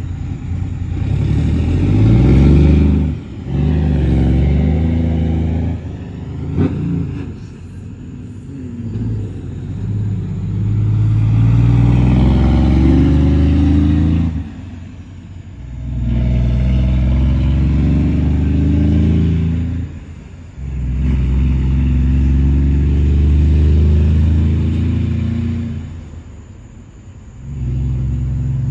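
Straight-piped diesel engine of a Kenworth T680 semi truck revved repeatedly: about five long revs, each climbing in pitch and held for a few seconds before dropping back, then settling to a lower idle rumble near the end.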